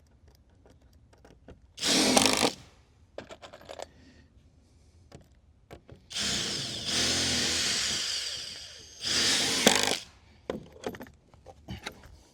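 Power drill driving screws into wooden deck boards in three trigger bursts: a short one about two seconds in, a longer one of about three seconds starting around six seconds, and another short one right after it. Each stops abruptly. Light clicks and knocks of handling wood and screws fall between them.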